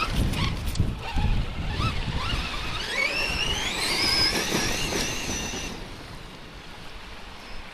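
Electric motor of a 1/6-scale Redcat Shredder RC truck on a 6S battery, whining higher and higher as the truck speeds up across sand, the whine fading out near the end. Wind buffets the microphone throughout, with a few knocks early on.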